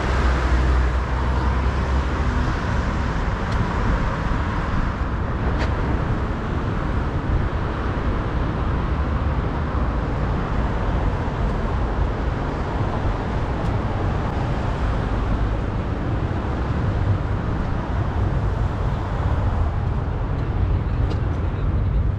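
Steady city road traffic noise: a continuous low rumble of vehicles running, with no single vehicle standing out.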